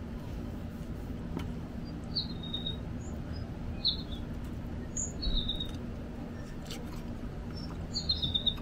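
Small bird chirping: short, slightly falling chirps, four or five of them spread over several seconds, over a steady low hum.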